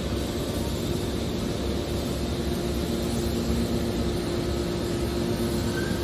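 Hydraulic can baler running: a steady machine drone with a low, even hum from its motor and pump.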